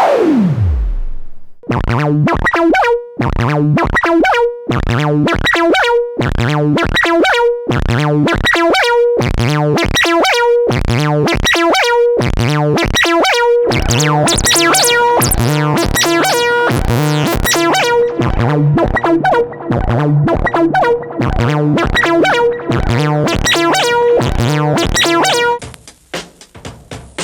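Analog Eurorack filter (SEOK Drips, 12 dB/oct) playing a rhythmic synth sequence with a resonant, bubbly tone. At the start a pure tone slides down into deep bass, and the pattern grows busier about halfway through. Near the end it drops to a quieter, thinner, hissy sound.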